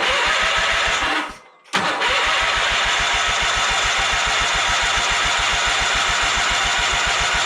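John Deere 317 garden tractor's engine cranking on its starter without firing. There is a short crank of about a second, a brief pause, then a long steady crank with even, regular pulses. It does not catch because no fuel has reached it yet: the fuel filter is still empty.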